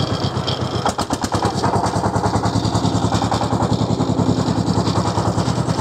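A motor tricycle's engine running with a fast, steady chugging beat of about nine beats a second, as it boards the ferry.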